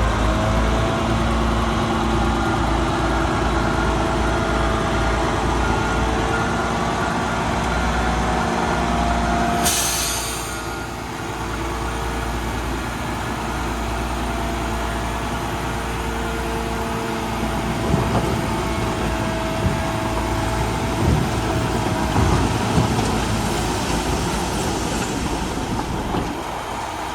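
Heavy diesel earthmoving machinery running steadily, with a short hiss of air, like an air brake releasing, about ten seconds in. Several sharp metallic clanks come near the end.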